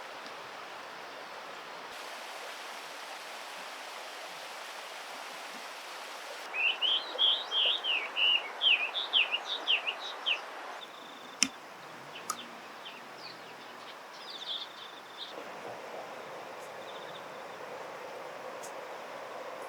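Eastern spot-billed duckling peeping: a fast run of loud, high peeps lasting about four seconds, then a few fainter calls, over a steady rush of flowing water. A single sharp click comes between the two runs of calls.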